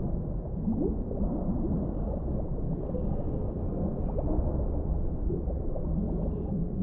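Muffled deep-sea underwater ambience: a steady low rumble with faint gurgling and a few brief rising squeaks.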